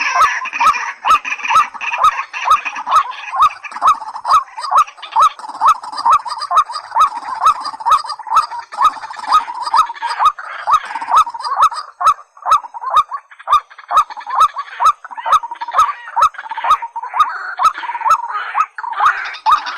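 White-breasted waterhen and watercock calling: a rhythmic note repeated about two to three times a second, with harsher rough calling over it that grows stronger near the end.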